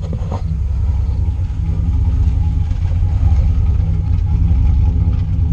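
Turbocharged LSX V8 truck engine idling roughly through a quiet exhaust, heard close to the tailpipe. It runs as a steady low rumble. The rough idle is because the engine still needs a tune.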